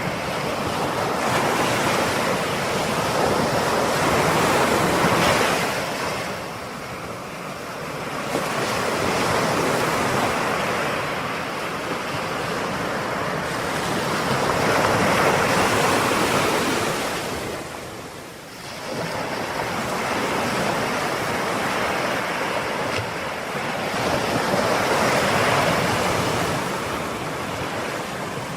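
Ocean waves breaking and washing up the shore: a continuous rush that swells and ebbs, easing into two brief lulls, about a quarter of the way in and again past the middle.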